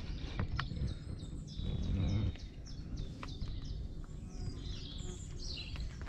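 Songbirds chirping and singing in many short, high notes, over a low rumble with a few light clicks.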